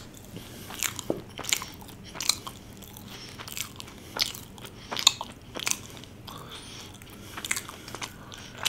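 Close-miked chewing of a mouthful of chicken momos burger, with irregular sharp mouth clicks and short crunches about once or twice a second.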